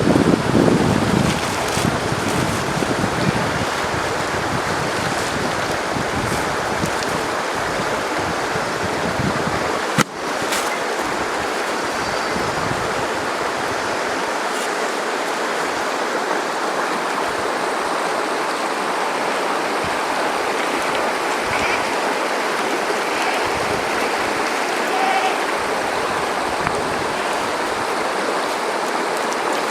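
River water rushing steadily. A low rumble of wind fades out in the first second or two, and a single sharp click sounds about ten seconds in.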